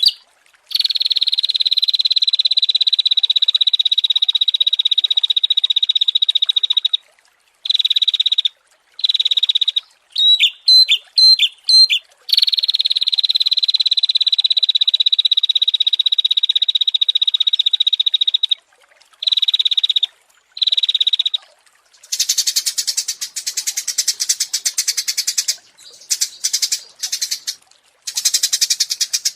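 Songbird training recording (masteran) of small songbirds: long, very fast buzzing trills held at one pitch, broken about ten seconds in by a burst of quick chirps. A harsher, noisier buzzing trill comes in short runs near the end.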